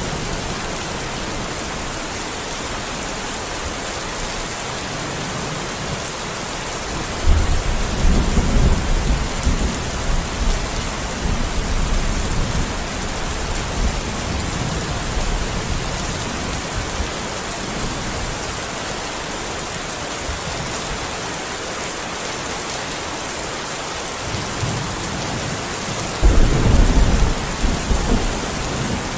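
Steady rain falling, with two rolls of thunder rumbling over it. The first rumble comes about seven seconds in and lasts a few seconds; the second, shorter one comes near the end.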